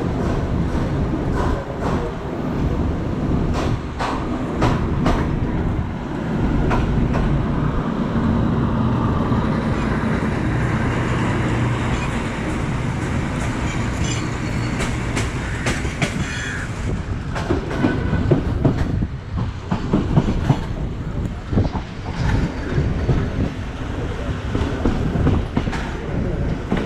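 Passenger train running, heard from on board: a steady low rumble of the wheels on the rails, with wheels clacking over rail joints, the clacks coming thicker in the last third.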